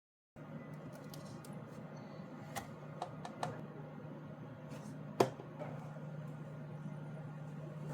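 A few scattered sharp taps over a steady low hum, the loudest tap about five seconds in; the sound starts abruptly a moment in.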